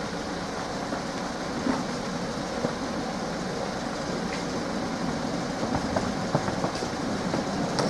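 Electric passenger train approaching a level crossing, its rumble slowly rising, with a few short sharp clicks in the second half.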